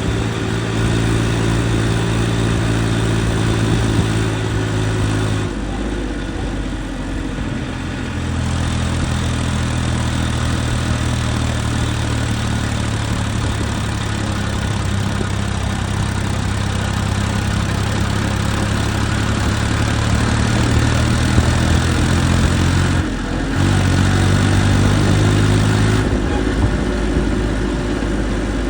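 Diesel tractor engine running steadily at a low, throbbing note. Its pitch shifts abruptly several times.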